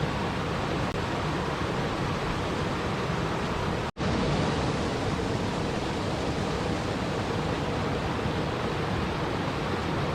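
Steady, even rushing water noise, with no distinct drops or splashes standing out. It cuts out completely for a split second about four seconds in, then resumes unchanged.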